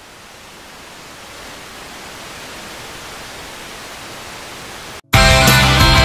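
A steady hiss of noise slowly swelling louder, as at the build-up between songs on a music soundtrack; it drops out briefly about five seconds in, and loud rock music with a steady beat kicks in.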